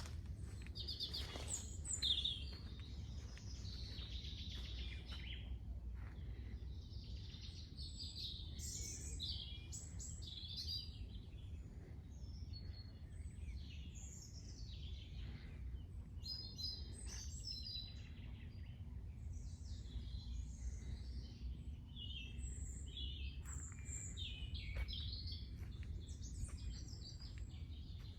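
Several wild birds singing and chirping in short overlapping phrases over a steady low outdoor rumble, with one louder call about two seconds in.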